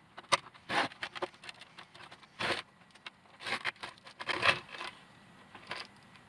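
A robot vacuum's casing and parts being handled and worked apart during a teardown: irregular clicks, knocks and short scrapes.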